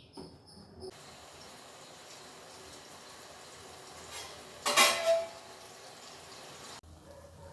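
A metal utensil clatters against a cooking pot once, about five seconds in, with a short ring, over a steady hiss that cuts off near the end.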